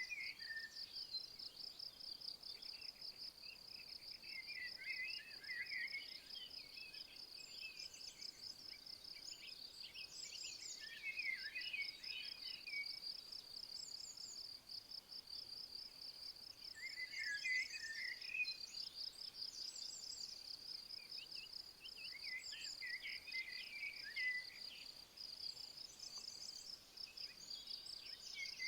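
Outdoor nature soundscape: an insect chirring steadily in a fast, even pulse, with a songbird singing a short warbled phrase about every five to six seconds.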